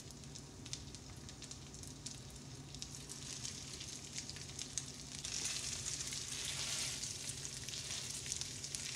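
Breaded fish cakes frying in butter and oil in a nonstick skillet: a steady sizzle with fine crackles, swelling louder about five seconds in.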